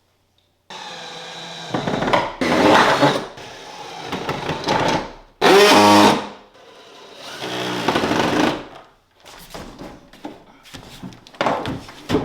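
Power drill running in several bursts of a few seconds each, its pitch shifting as the trigger is squeezed, while parts of a kit are screwed together. A series of short knocks and clicks follows near the end.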